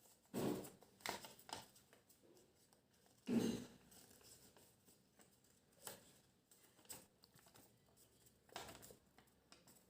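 A sheet of origami paper rustling and being creased by hand as it is folded, in a handful of short bursts, the loudest about three and a half seconds in.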